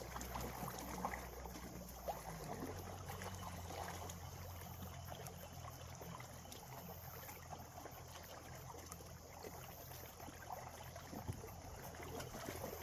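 Faint shoreline ambience: small water sounds with a low steady hum underneath and a few light ticks.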